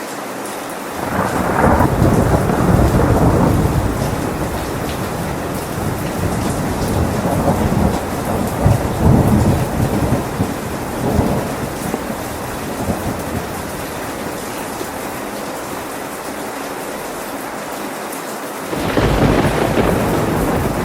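Steady heavy rain with rolling thunder: a long rumble builds about a second in and rolls on in waves for some ten seconds, then rain alone, then a fresh thunderclap near the end.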